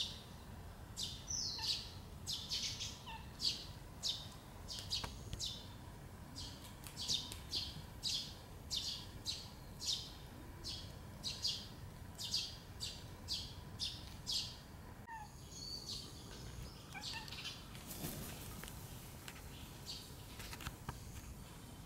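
A small bird chirping over and over, short high chirps about one to two a second, which stop at a cut about two-thirds of the way through; fainter scattered outdoor sounds follow.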